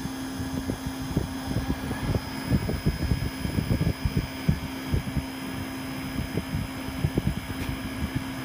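LG MULTI V mini outdoor air-conditioning unit running, a steady hum under irregular low rumbling gusts of wind on the microphone.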